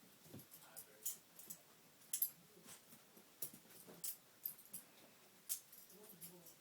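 A rat terrier and a sphynx cat play-fighting: irregular scuffling with many sharp clicks, some a few per second, with no steady rhythm.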